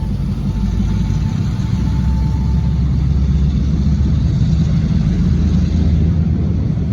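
Low, steady diesel rumble from an EMD SW1500 switcher locomotive as the train moves, getting louder about two seconds in. A faint, thin wheel squeal fades out within the first few seconds.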